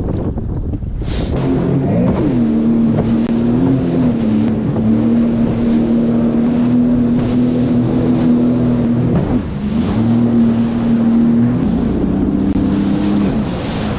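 Jet ski engine running at high revs under way, with wind on the microphone. The engine climbs about two seconds in, holds steady, dips and picks up again briefly, then eases off near the end.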